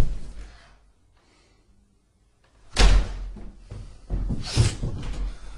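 Heavy thuds, like footfalls or a door banging: one at the start, then a near-silent gap of about two seconds, then a run of loud thuds. The listener hears them as somebody running.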